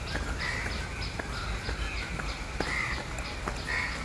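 Birds calling outdoors in short repeated calls, several a second, with some louder, lower calls mixed in.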